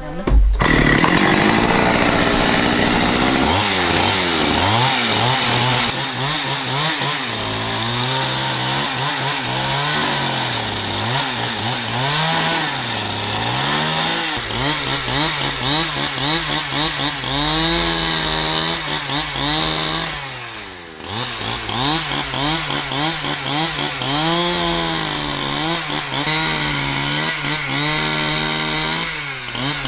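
Chainsaw cutting wood, its engine starting up about half a second in. The engine pitch rises and sags repeatedly as it bites into the timber, easing off briefly about two-thirds of the way through before cutting again.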